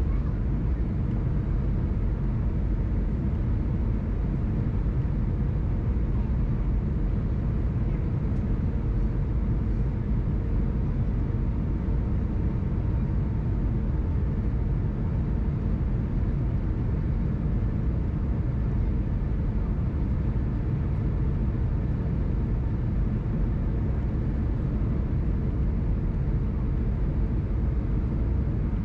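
Steady rumble and rush of engine and air noise inside the cabin of an Airbus A319 airliner, with a faint steady hum running through it.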